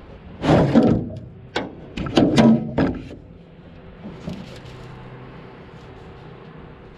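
A boat seat being slid out of an aluminum fishing boat, with loud scraping and clanking against the hull in two bursts, about half a second in and again around two to three seconds.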